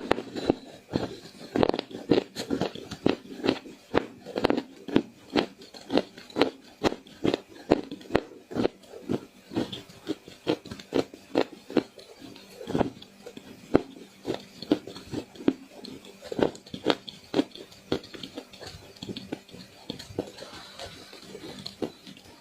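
Crunchy clay being bitten and chewed close to the microphone: sharp crackling crunches at roughly two a second, thinning out near the end.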